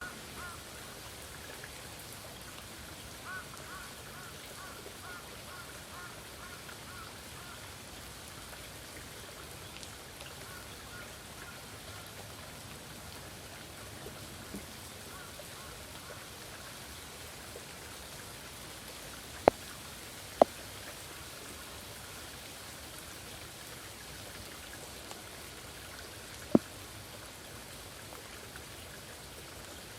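Forest stream water running steadily. During the first dozen seconds small repeated chirping calls sound over it, and three sharp clicks stand out around twenty and twenty-six seconds in.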